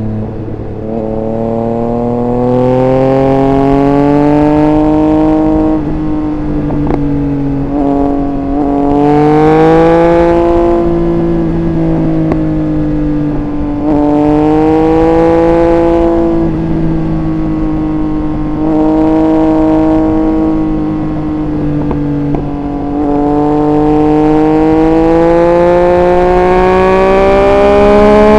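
Triumph Speed Triple 1200 RR's inline three-cylinder engine heard from on board, accelerating and backing off repeatedly: the engine note climbs over a few seconds and then drops at each gear change or roll-off, several times over. Wind rush on the microphone runs underneath.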